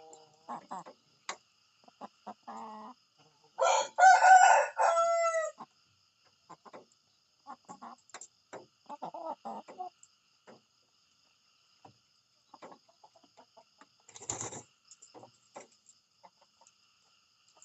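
A rooster crows once, loudly, about four seconds in, the call ending on a falling note. Shorter, quieter clucks come before and after, and there is a brief rustle near the end.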